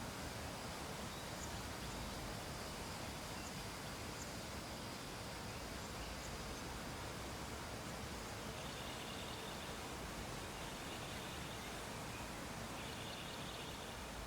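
Steady background hiss of room and microphone noise, with faint high-pitched chirping or beeping patterns in the second half.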